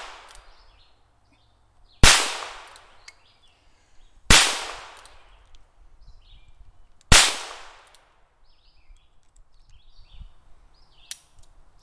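Three gunshots, about two to three seconds apart, each a sharp crack with a trailing echo.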